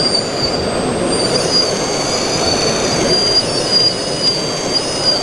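Small electric motors of 1/14-scale radio-controlled model machines whining: several high, thin tones that waver up and down in pitch over steady background noise.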